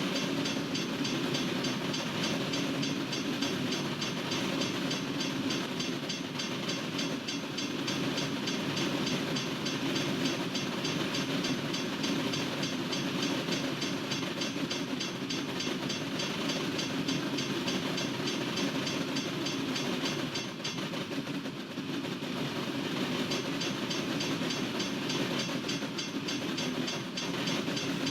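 Freight cars of a long Norfolk Southern train rolling steadily past a railroad crossing: a continuous rumble of wheels on rail with fast, even clicking, dipping briefly about two-thirds of the way through.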